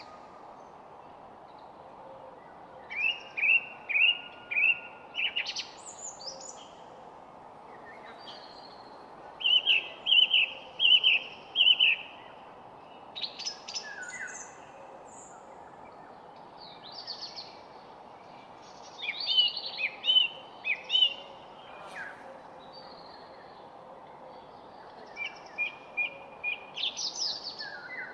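Songbirds singing in short phrases of a few quickly repeated chirping notes, a phrase every few seconds with pauses between, over a steady low hiss of background noise.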